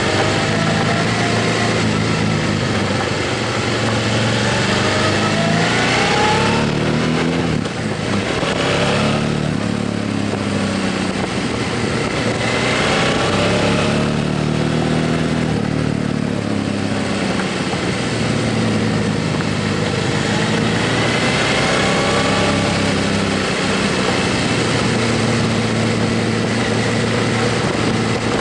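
Motorcycle engine running on the road, rising in pitch several times as it accelerates, over a steady rush of noise.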